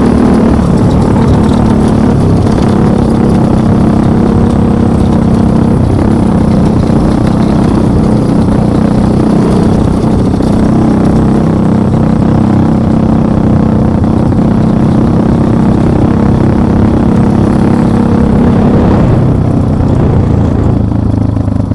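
Vehicle engine running close by at steady, fairly high revs, with the engine note dropping to a lower pitch as it backs off near the end.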